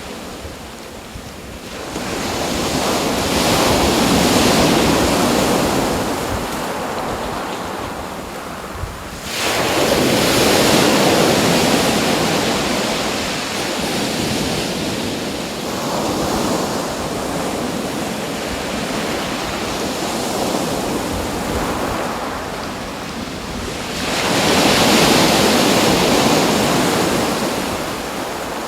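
Waves washing in and breaking in repeated swells of rushing noise. One wave breaks suddenly about a third of the way in, and another surges near the end.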